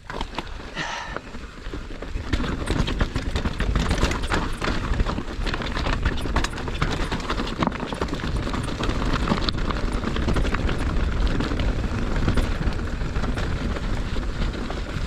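Mountain bike rolling over a dirt trail: wind buffeting the microphone over a steady low rumble from the tyres, with frequent rattling clicks and knocks from the bike.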